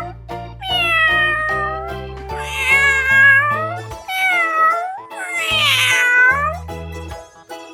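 Domestic cat meowing four times, each meow a drawn-out call bending down then up in pitch, over background music with a steady bass line.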